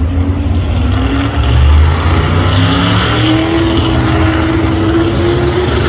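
Pulling truck's engine at full throttle with a deep rumble, its pitch climbing steadily as it drags the weight sled down the track.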